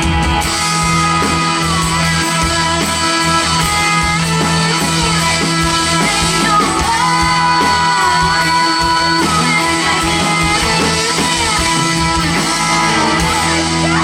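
Live amplified country band playing an instrumental passage led by guitar over held chords and a steady bass, with no singing, as the song winds to its close.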